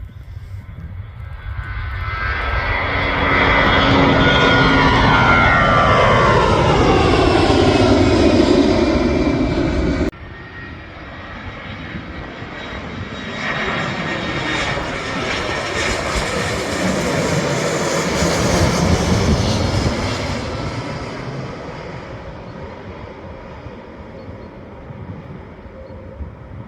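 Airplane engines passing close by, growing louder with a whine that falls in pitch as the aircraft goes past. The sound cuts off abruptly about ten seconds in, then a second aircraft's engine rumble swells and fades away.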